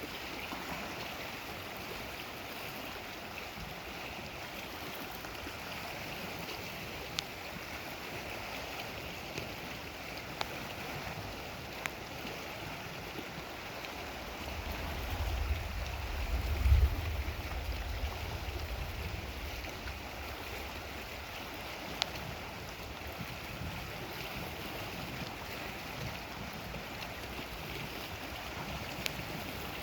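Steady wash of lake water along the shore, with a low rumble of distant thunder swelling about halfway through and dying away after a few seconds.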